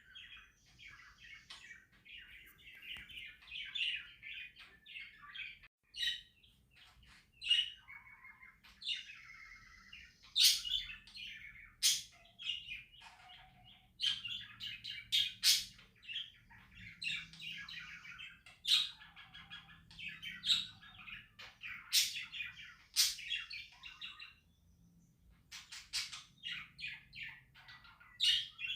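Budgerigars chattering and warbling almost without a break, with many sharp, louder chirps scattered through.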